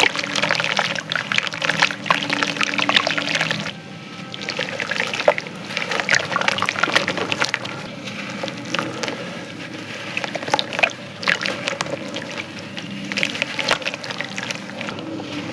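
Soft, crumbly chunks breaking apart in water, with dense, irregular crackling over the sound of water. It dips briefly about four seconds in, then goes on with sparser crackles.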